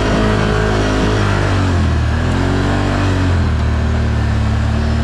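ATV engine under throttle during a mud ride. Its pitch rises and falls twice, then it settles into steady running for the second half.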